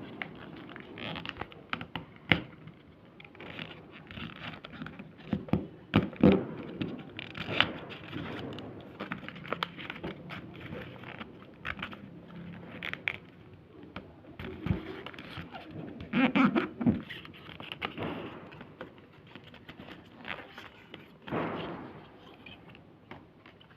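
Paper being handled and folded: irregular crackling and scraping with scattered knocks, the loudest bursts about six seconds in and again around sixteen seconds.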